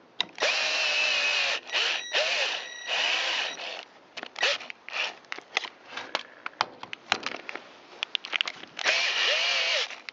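Power driver running screws in, in several short bursts that spin up and stop, with clicks and knocks of handling in between and one more run near the end. It is driving the hand-started engine mounting screws into a chainsaw cylinder.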